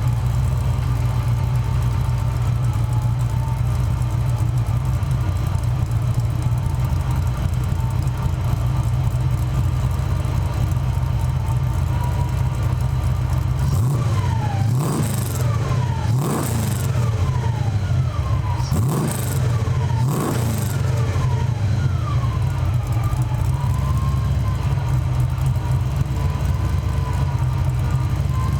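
Fox-body Ford Mustang engine idling steadily just after being started on fresh oil, with a few quick throttle blips in the middle whose revs fall away back to idle.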